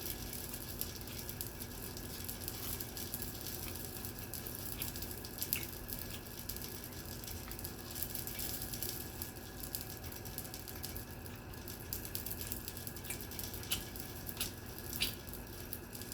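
Eating sounds: curry and rice being mixed and eaten by hand, soft wet squishes with scattered small clicks, over a faint steady hum.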